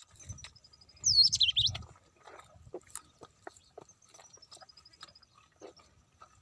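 Small birds chirping: a loud burst of sharp, sweeping chirps about a second in, and a falling series of rapid high notes heard twice, with scattered faint clicks.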